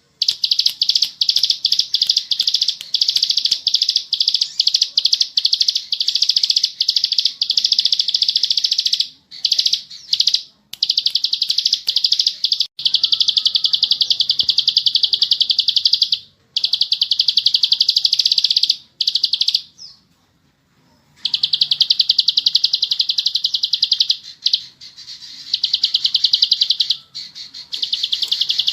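Ciblek sawah, a small prinia, singing a rapid, continuous trilled chatter: long fast-repeating runs with brief pauses and one silence of about a second near two-thirds of the way through. This is the sustained 'ngebren' song.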